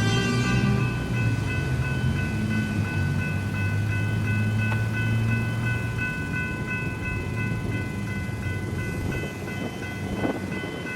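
A train rumbles over a level crossing and fades out about halfway through. The crossing's electronic bells ring on steadily, a constant pulsing electronic tone.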